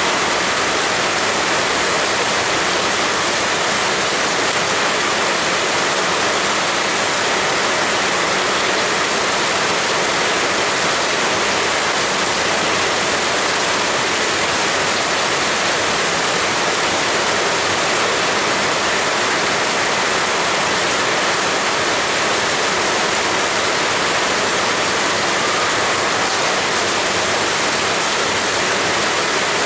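Heavy rain falling steadily, an even, unbroken hiss with no separate drops or gusts standing out.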